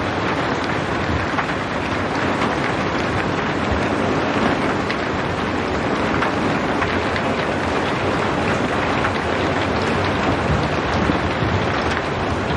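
Steady rain without thunder: an even hiss of falling rain with scattered individual drop hits.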